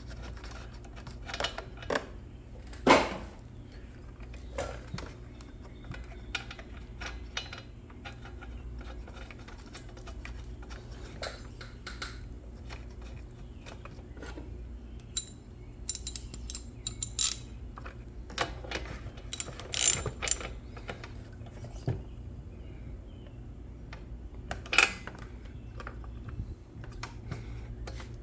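A ratchet wrench clicking, with scattered clicks and knocks of hand tools, as a new spark plug is fitted to a Homelite leaf blower. A steady low hum runs underneath.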